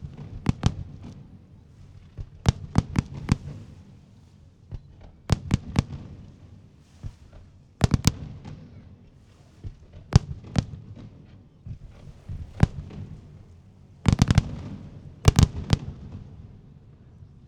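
Aerial fireworks shells bursting, sharp bangs coming in clusters of two to four every couple of seconds, with a low rumbling haze between them.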